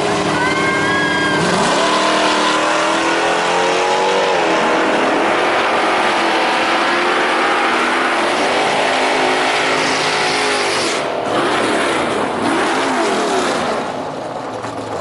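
Drag-racing engine at full throttle on a run down the strip, its pitch sweeping up sharply at the launch about a second in, then climbing and stepping down through the gear changes. A little after 11 seconds the sound breaks off and changes as the run ends.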